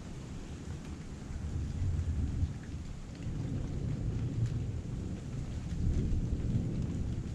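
Heavy rain falling steadily, with scattered drop ticks, under a low rumble of thunder that swells about two seconds in and again from about three and a half seconds on.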